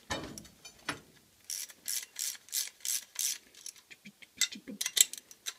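Welding brush scrubbing an aluminum baseplate in a quick run of about six strokes, then a few scattered clicks and scrapes near the end. The brushing clears the oxide layer before welding.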